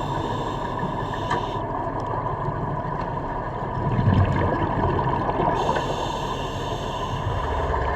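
Steady low drone with a few fixed tones, like boat engines heard underwater, with two spells of hiss: one at the start and one from past the middle to the end.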